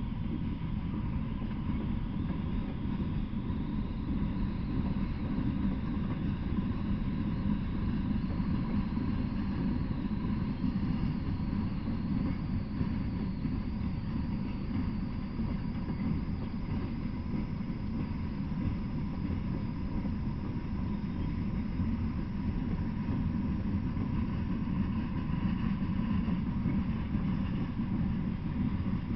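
Norfolk Southern open-top hopper cars rolling past on the rails: a steady low rumble of steel wheels on track.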